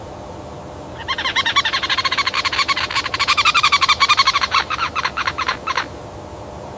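An animal's loud, rapid rattling call, about a dozen pulses a second, starting about a second in and lasting some five seconds, the pulses spacing out near the end before it stops, over a steady background hiss.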